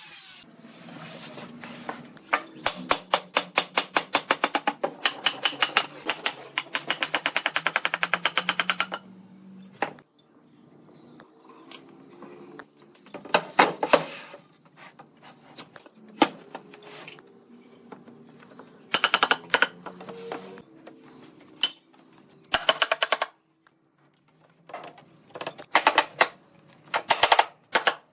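A power tool firing rapid strikes in bursts, several a second, some bursts running for several seconds and others brief, with a low steady hum between them.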